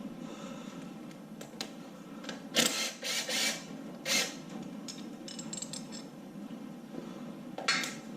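Metal tools clinking on a 6.0 LQ4 LS engine block as a 15 mm socket and wrench loosen the dipstick tube bolt: a few sharp metallic clanks and short rattles over a steady low hum.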